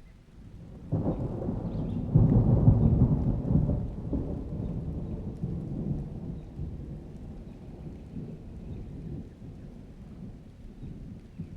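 A roll of thunder in a rainstorm: a low rumble breaks out about a second in, is loudest from about two to four seconds in, then slowly rolls away, with rain falling.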